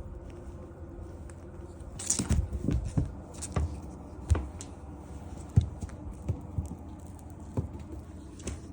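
Irregular soft thumps and taps of kittens scrambling about, starting about two seconds in, over a steady low room hum.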